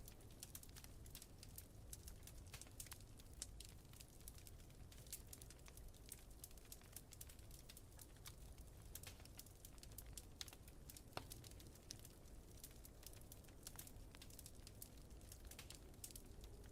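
Faint wood fire crackling with many small, irregular pops, over a low steady rumble of blizzard wind.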